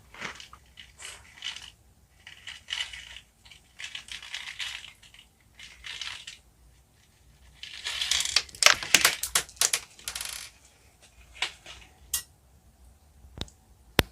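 Close-miked eating sounds of jelly and candy: bites and crunchy, sticky chewing in short bursts, densest about eight to ten seconds in, followed by a few sharp clicks.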